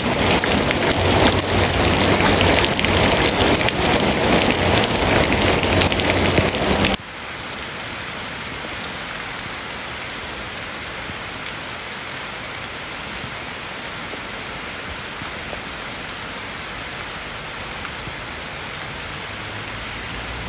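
Steady heavy rainfall hiss. About seven seconds in it drops suddenly to a quieter, lighter rain sound with less low rumble, which carries on evenly.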